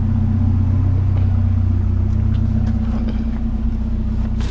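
Vehicle engine idling steadily with a low hum, with a few faint light clicks.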